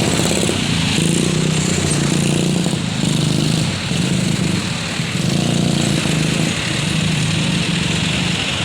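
Vehicle engines running on a road, a continuous drone that pulses and rises and falls slightly in level.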